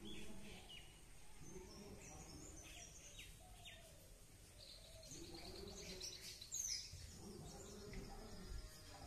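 Faint birds chirping outdoors: scattered short high chirps, a quick trill about halfway through and a short falling whistle just after, over a low background hum of open-air ambience.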